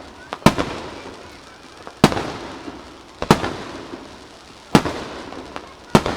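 Aerial firework shells bursting overhead: a loud bang about every second and a half, five in all, each trailing off in a rolling echo, with a few smaller pops between.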